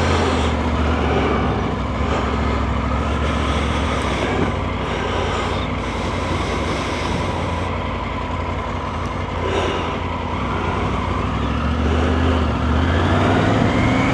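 Triumph Tiger 900 three-cylinder motorcycle engine running on the move, a steady low drone. The engine pitch rises in the last couple of seconds as it accelerates.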